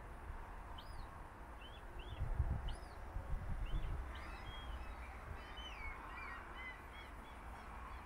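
Small birds chirping: many short, high, arched chirps, coming thicker in the second half with a few falling notes, over a low rumble with a couple of low thumps about two and a half seconds in.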